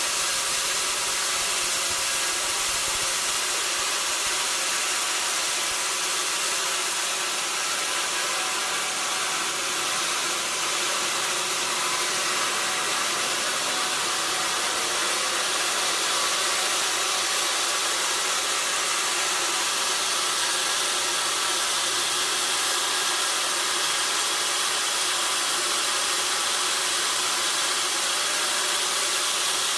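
Sawmill saw running steadily through a mahogany log, a continuous hissing whir with a faint steady machine hum underneath.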